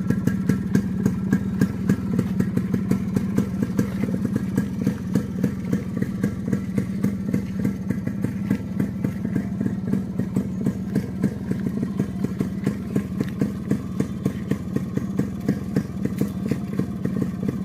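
Yamaha RX100's two-stroke single-cylinder engine idling steadily through its exhaust, with an even, rapid train of exhaust pulses and no revving.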